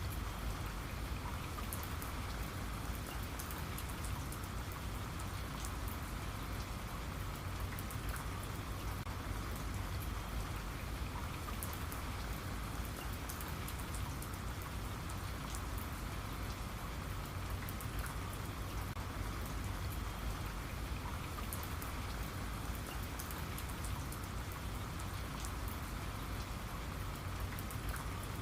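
Steady rain falling, with a constant hiss and the fine patter of many drops striking a surface.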